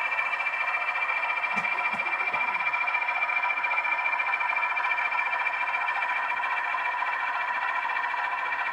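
Model diesel locomotive running on the layout: a steady, thin mechanical whine with a couple of soft knocks about a second and a half to two and a half seconds in.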